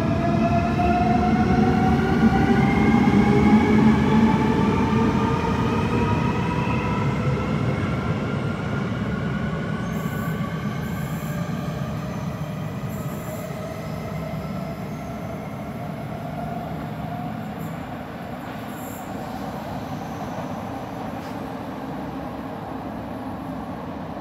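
Double-decker electric RER train pulling out of an underground station: its traction motors whine, rising in pitch for the first several seconds as it accelerates, over the rumble of the cars. The sound then fades steadily as the train draws away.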